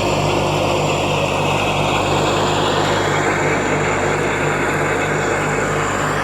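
John Deere 1070 compact tractor's diesel engine running steadily under load, with its PTO-driven 72-inch finish mower deck spinning and cutting grass. A loud, even drone with a regular low throb.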